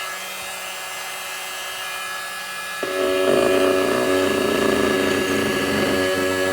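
Oscillating multi-tool with a caulk-cutting blade buzzing as it cuts old caulking out of teak deck seams. It runs quieter for the first few seconds, then about three seconds in steps up louder with a rough, chattering buzz.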